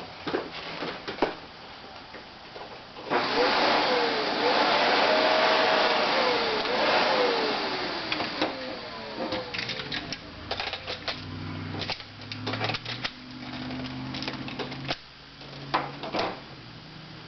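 Kenmore Progressive canister vacuum cleaner switched on about three seconds in, running loudly with whooshing airflow and shifting motor tones, then easing down to a lower hum that stops near the end. Scattered clicks of handling the hose and wand come before and after.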